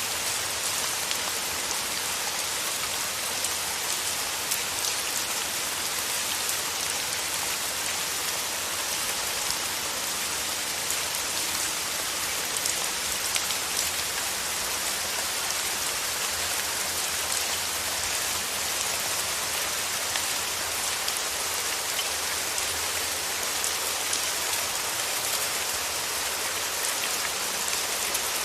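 Steady rain falling, an even hiss of many drops with fine individual drop ticks, brightest in the high register and unchanging throughout.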